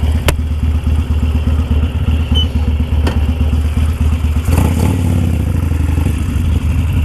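Harley-Davidson Sportster's air-cooled V-twin, fitted with a Dan Moto Highwayman 2-into-1 exhaust, idling with an uneven, loping beat. It swells louder about four and a half seconds in, and a couple of light clicks sound over it.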